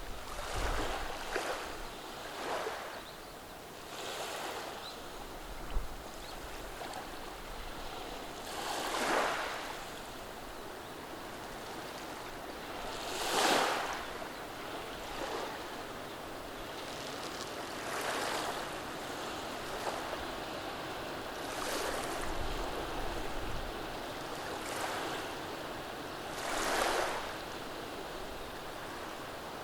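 Small, gentle sea waves washing over a beach of rounded cobblestones. Each wash swells and falls away every few seconds, and the largest comes about halfway through.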